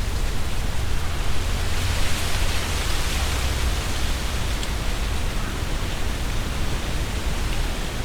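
Strong wind gusting through trees, the leaves rustling, with a low rumble of wind buffeting the microphone. A gust swells about two seconds in and eases off a couple of seconds later.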